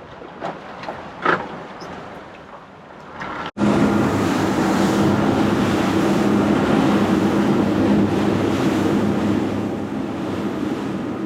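Boat engine running steadily under way, with wind and rushing water. It cuts in abruptly about three and a half seconds in, after a few faint knocks.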